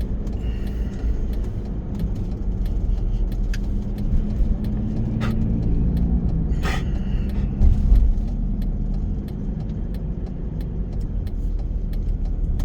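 Car engine and road rumble heard from inside the cabin while driving. A brief heavier low thump about eight seconds in, where the car likely crosses the speed bump the navigation had announced.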